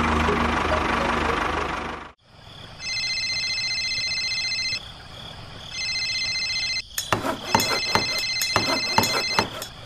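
A small engine running with a low, even knocking pulse, which cuts off suddenly about two seconds in. Then comes a steady high electronic ringing tone, twice, with a short break between. From about seven seconds in the tone returns with a quick, rhythmic run of clicks and taps, like a ringtone tune.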